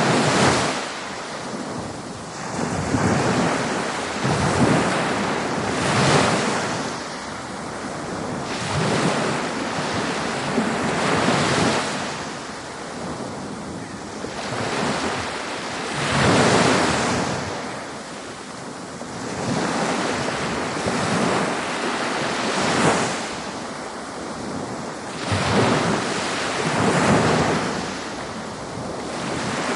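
Ocean waves breaking on a beach: a continuous hiss of surf that swells and recedes, with a wave washing in every few seconds.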